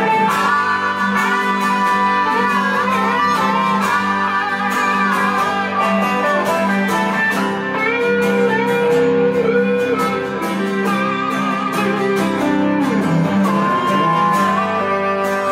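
Blues guitar instrumental break: a lead line of held notes that slide and bend in pitch, over steady guitar accompaniment, with no singing.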